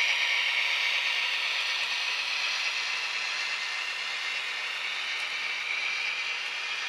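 HO scale model train rolling along the layout: a steady, hiss-like rolling noise with no low rumble, slowly fading as the train moves away.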